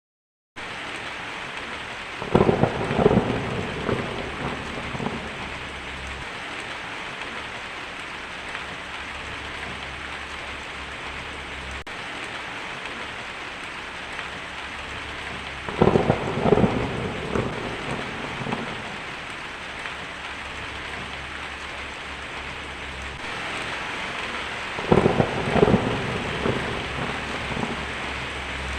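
Heavy rain falling steadily on a tin roof, with three rolls of thunder: one a couple of seconds in, one about halfway, and one near the end.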